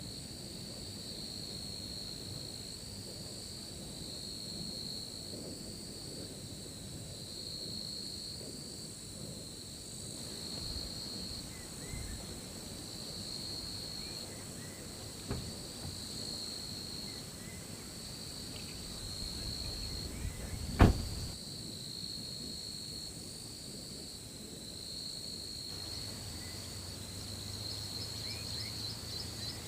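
Insects chirping steadily in a high, gently pulsing trill over low background noise, with one sharp click about two-thirds of the way through.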